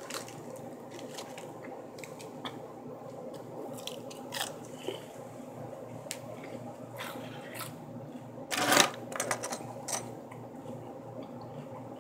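Close-up chewing and crunching of a mouthful of lettuce salad with croutons, with scattered short clicks; the loudest crunch comes about two-thirds of the way through, over a steady low hum.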